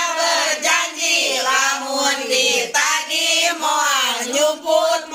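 A group of voices reciting a pledge line in unison, in a chanting cadence, repeating after a leader.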